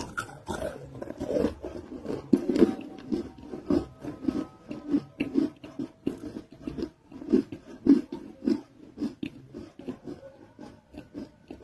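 Close-miked biting and chewing of a non-roasted nakumatt clay roll: a steady run of crisp crunches, about two a second.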